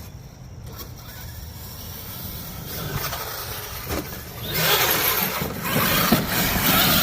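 Traxxas X-Maxx RC monster truck driving, its motor and tyres running over the ground, growing much louder and harsher about halfway through as it speeds up.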